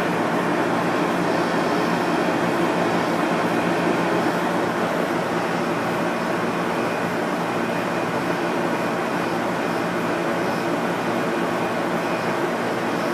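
Window air conditioner running steadily after a cleaning, compressor and fan on and cooling, with a constant even hum and rush of air.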